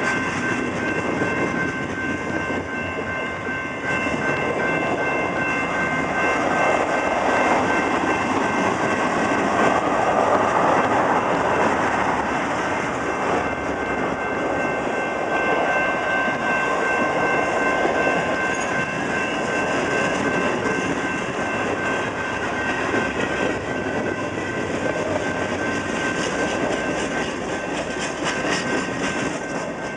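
Freight cars of a slow Canadian National train rolling past close by: steel wheels rumbling and clacking over the rail joints, with a steady high-pitched whine.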